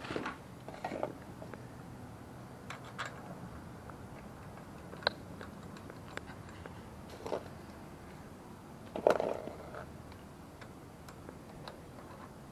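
Scattered clicks and small knocks of tools and metal parts being handled while a Tektro 4-piston brake caliper is fitted to an electric bike's front fork, with the loudest clatter about nine seconds in.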